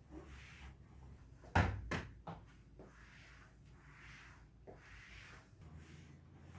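Two quick sharp knocks, like something hard bumping shut, about a second and a half in, followed by a few lighter clicks and soft rustling.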